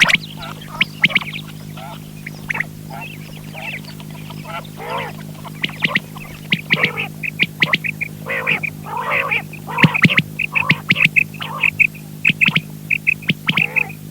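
Quail calling: many short, high chirps in quick irregular series, coming thicker in the second half, over a steady electrical hum.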